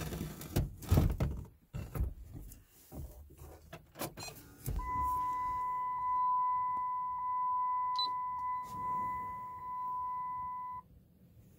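Several clunks and knocks, then a steady electronic warning tone from the pickup's dash for about six seconds, which cuts off suddenly. No engine is running yet.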